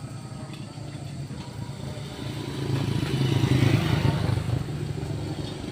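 A motor vehicle engine running, growing louder from about two seconds in and loudest around three to four seconds, then easing slightly near the end.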